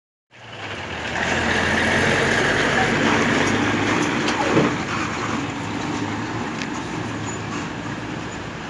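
Motor vehicle engine running with a steady low hum under dense noise, with a brief louder swell about four and a half seconds in.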